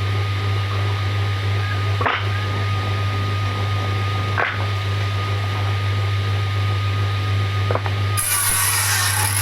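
A woodworking power tool running steadily with a low hum, with a few short knocks; about eight seconds in it starts cutting into wood with a loud, harsh rasping noise.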